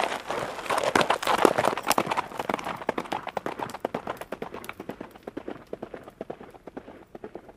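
Hoofbeats of a group of horses, a dense, irregular clatter of hooves that grows steadily fainter toward the end.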